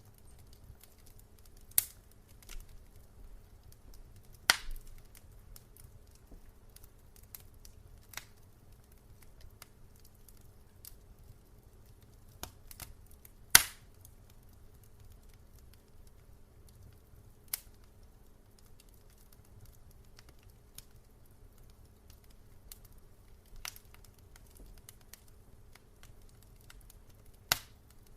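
Wood fire in a fireplace crackling, with scattered sharp pops at irregular intervals, the loudest about halfway through, over a faint steady low hum.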